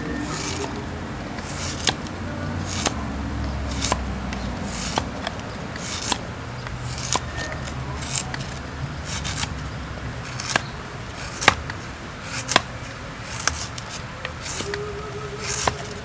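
Flint being struck with a steel striker, a sharp scraping click about once a second, some strikes with a brief high hiss as sparks are thrown.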